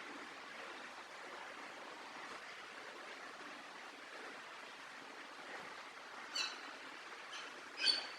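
A small bird gives two short chirps, a softer one about six seconds in and a louder one near the end, over a steady background hiss.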